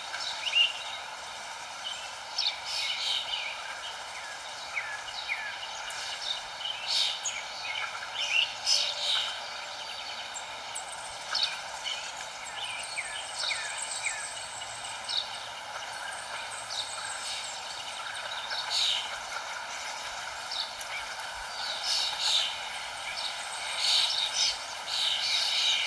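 Songbirds chirping and twittering, with many short quick calls from several birds scattered throughout and a thin high trill about eight seconds in, over a steady background hiss.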